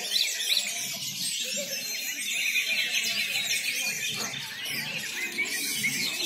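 Many caged songbirds singing over one another in a dense chorus of quick whistles, trills and chirps, with a low murmur of people underneath.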